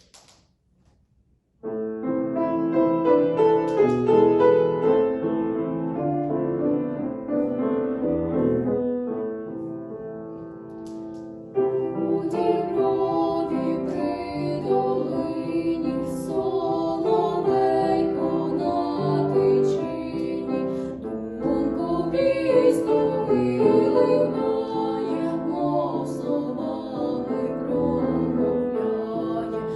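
Piano-led music introduction that starts about two seconds in and grows fuller and louder about twelve seconds in.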